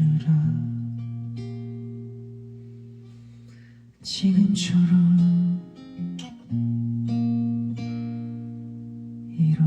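Acoustic guitar strumming a few chords, each left to ring out and slowly fade, with fresh strums about four seconds in, six seconds in and near the end.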